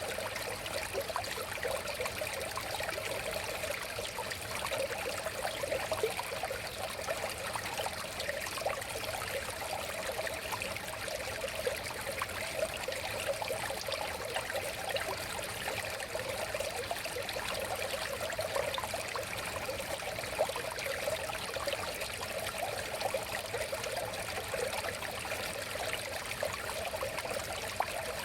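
River water flowing and babbling steadily, with continuous fine splashing and gurgling.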